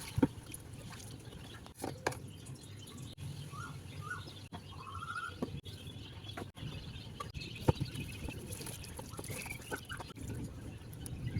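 Birds chirping over a steady rain-like hiss, with a few sharp clicks and knocks.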